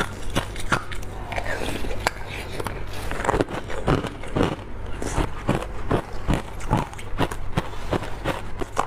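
Teeth biting into wet frozen matcha ice: a quick, irregular series of sharp crunches and cracks, several a second.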